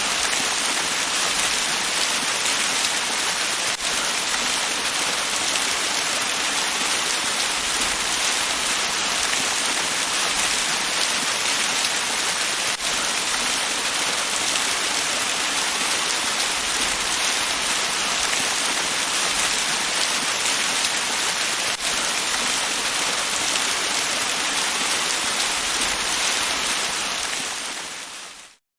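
Waterfall: a steady, hissing rush of falling and splashing water that fades out near the end.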